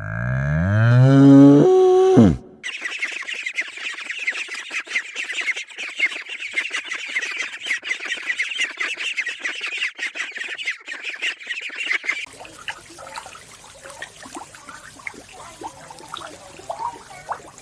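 A cow mooing once, a long call that rises and then falls, ending about two and a half seconds in; after it comes a dense high chatter of many tiny chirps that stops about twelve seconds in, followed by quieter scattered small sounds.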